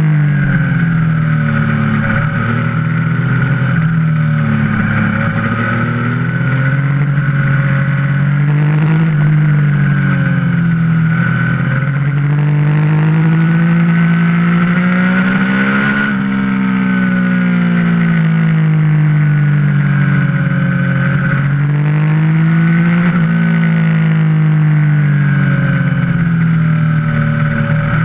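Motorcycle engine running under way, its pitch repeatedly climbing and dropping every few seconds as the rider accelerates and eases off, with wind rush underneath.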